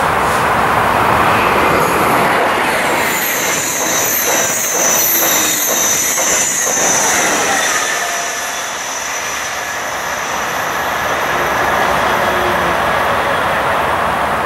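TGV Duplex double-deck high-speed train passing close on a curve, its wheels squealing high-pitched against the rails for several seconds, with a rapid clatter of wheels over the track midway. Near the end the rumble of another approaching TGV builds.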